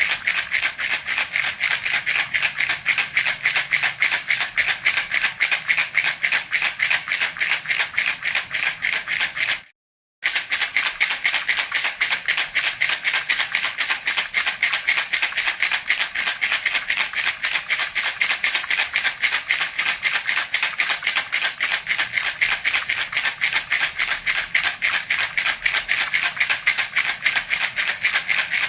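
Baby rattle (jhunjhuna) shaken in a steady, even rhythm of quick rattling strokes. It stops dead for about half a second near ten seconds in, then carries on unchanged.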